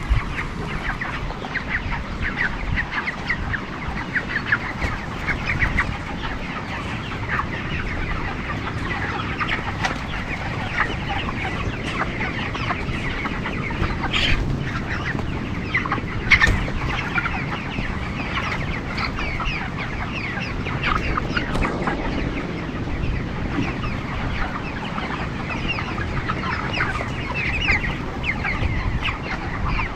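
A large flock of broiler chickens making a dense, continuous chorus of clucks and peeps, with a couple of sharp knocks about halfway through.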